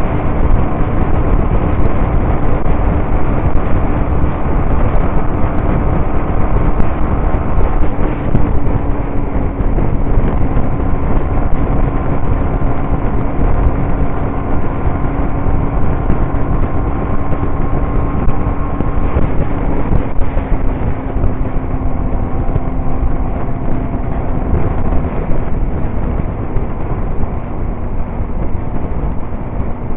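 Motorcycle running at a steady cruising speed, its engine note holding nearly level, under loud wind rush over the microphone.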